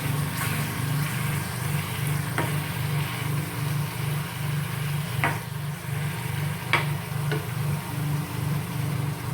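Boneless chicken frying in ghee in a pan, sizzling while a spoon stirs it, with a few sharp clicks of the spoon against the pan. A steady, evenly pulsing low hum runs underneath.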